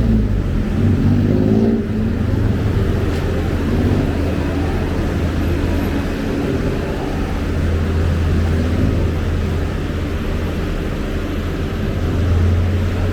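City road traffic: engines of passing vehicles rising and falling in pitch over a steady low rumble.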